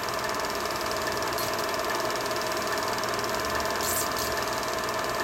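Film projector running steadily, its motor and film transport whirring and clattering evenly.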